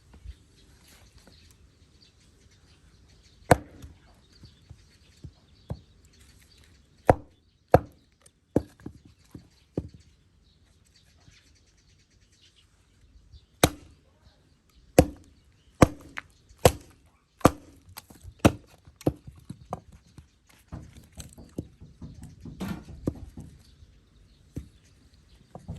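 Sharp chopping strikes on wood, coming irregularly about once a second in two runs with a pause between them.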